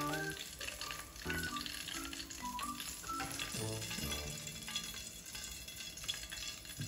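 Chicken pieces crackling and sizzling in hot frying oil in a pan, with background music playing over it.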